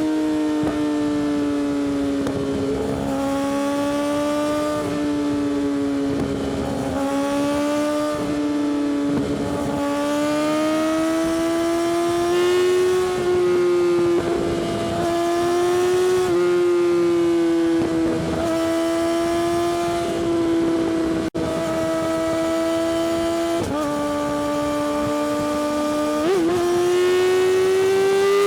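Yamaha R6's inline-four engine, fitted with an Akrapovic exhaust, running at sustained high revs while riding. The pitch drifts slowly up and down with small throttle changes and climbs quickly near the end.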